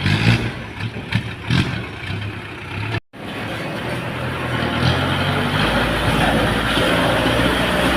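Truck diesel engine running, with irregular clattering knocks over it for the first three seconds. After a sudden break about three seconds in, the engine runs steadily and grows louder from about five seconds in.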